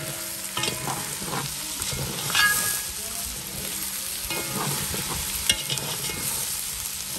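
Shrimp, green beans and large green chillies sizzling in a metal cooking pot while they are stirred, with a metal utensil scraping against the pot a few times.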